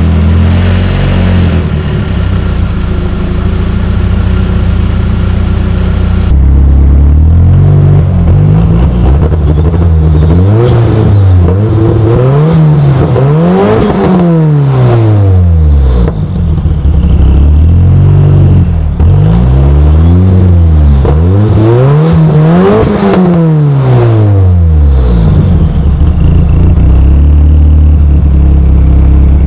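Turbocharged Ford 2.3 L Lima four-cylinder in a 1962 Falcon, running cold, with its exhaust note idling steadily. It is then blipped hard about six times, each rev rising and falling quickly back to idle, before it settles into a steady idle near the end.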